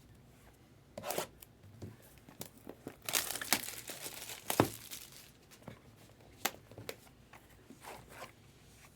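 The wrapping of a sealed trading-card box being torn and crinkled open in several bursts, with the longest run in the middle and a sharp snap partway through it.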